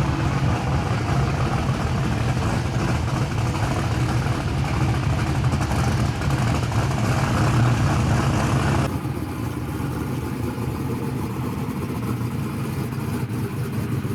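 Drag car engine running loud and steady. About nine seconds in it cuts abruptly to a quieter engine running.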